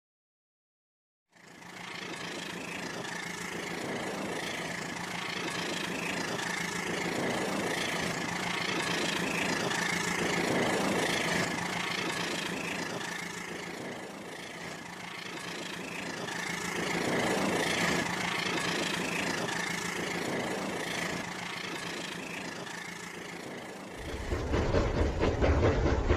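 Remote-control Rail King toy train's small electric motor and gears running, a steady whirr with a high gear whine that slowly swells and fades as it moves along the track. The sound starts after about a second of silence and turns louder near the end.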